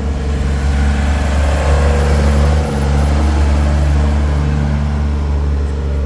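A truck's engine running close by at low speed, a steady low rumble that grows a little louder through the middle and eases toward the end.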